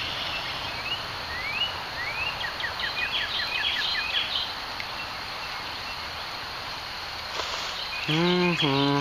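Outdoor ambience with a steady high insect drone and a run of short rising bird chirps and quick notes in the first half. A man's voice sounds briefly near the end.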